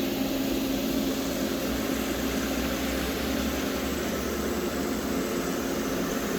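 Steady machine-shop hum: an even mechanical drone with a low steady tone and no strokes or changes.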